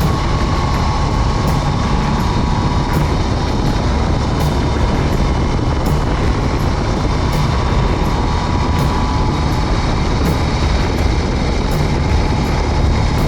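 BMW R18's boxer twin running steadily at cruising speed, with steady wind and road rush over the motorcycle.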